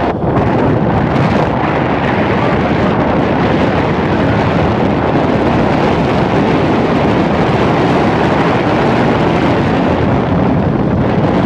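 Wind buffeting the microphone on a moving 1953 Indian Chief motorcycle, with the bike's V-twin engine running underneath as a steady, loud rush.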